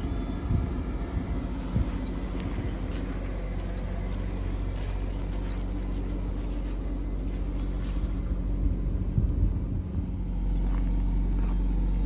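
Nissan 180SX engine idling steadily, getting louder about ten seconds in, when the rear of the car and its exhaust come close.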